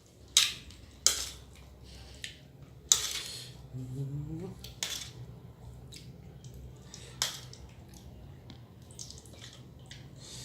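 Eating crab: a run of sharp cracks and crunches as crab shell is broken and chewed, about five louder ones among many small clicks. A short low rising hum from the eater about four seconds in.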